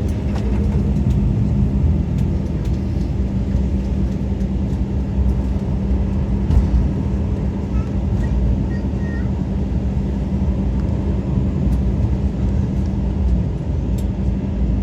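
Cabin noise inside an Embraer E-Jet airliner rolling on the ground after landing: a steady engine and rolling rumble with a constant low hum.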